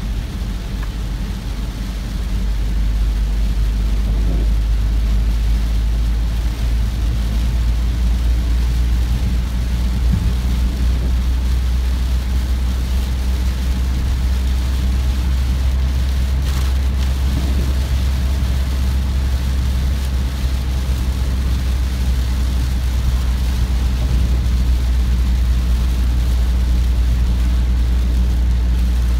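Steady low rumble of a car driving on a wet road, engine and tyre noise heard inside the cabin, with the hiss of torrential rain on the vehicle over it. It grows a little louder about two seconds in.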